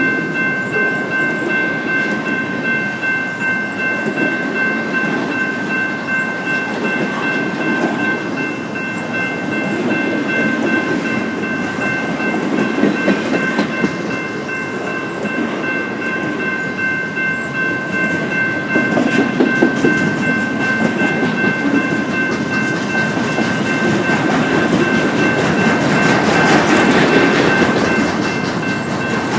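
Train rolling past on the track, a continuous rumble of wheels on rail with clickety-clack that swells and eases, and a steady high-pitched whine of several tones above it throughout.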